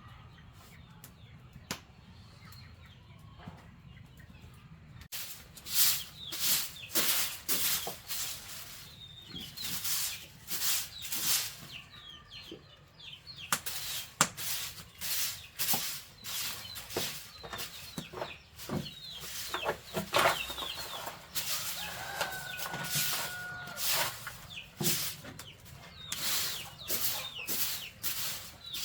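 Chickens scratching and flapping, giving a quick run of sharp rustles and wing beats from about five seconds in, with a short clucking call near the end.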